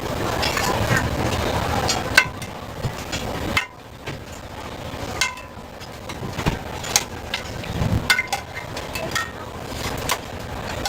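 Street food stall cooking clatter. A steady hiss cuts off about three and a half seconds in, and sharp clinks and taps of metal utensils and cookware run throughout.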